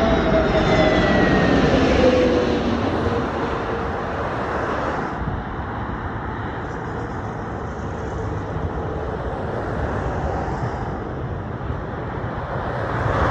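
Airbus A320neo's CFM LEAP-1A engines and airframe during the landing rollout: a dense rumble with an engine whine falling in pitch over the first couple of seconds, settling to a steadier, somewhat quieter rumble about five seconds in as the aircraft slows.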